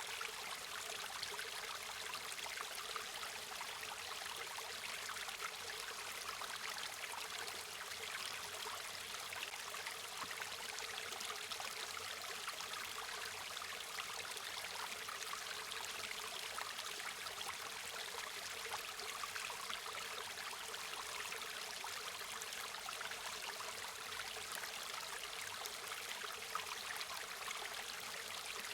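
River water running and splashing in a steady, even rush, with many small bright trickles and splashes and little low rumble.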